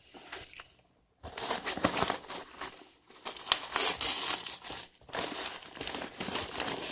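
Mailing package crinkling and tearing as it is cut and pulled open by hand, in irregular stretches with short pauses.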